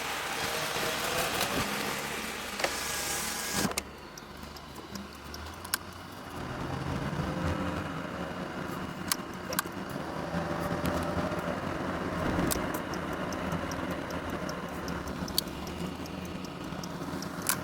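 A car running, with a steady low rumble and scattered light clicks. A hiss in the first few seconds stops abruptly, and the rumble builds up a few seconds later.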